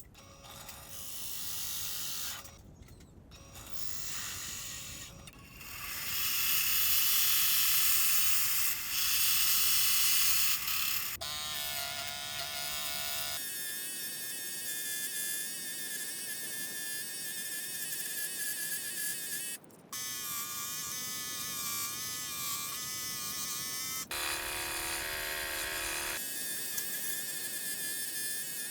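Small electric power tools whirring with a steady high whine, in a run of short clips that cut abruptly from one to the next about every two to six seconds.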